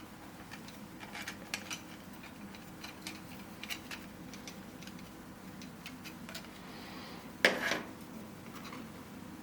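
3D-printed plastic puzzle pieces clicking and tapping against each other as they are pushed and snapped together, with one louder snap about seven and a half seconds in.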